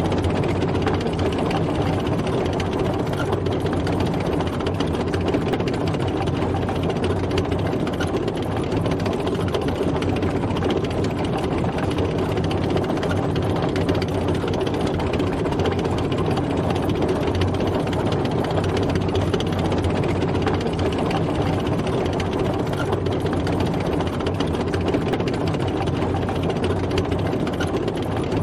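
Tank driving, its engine running steadily with no change in pace or load.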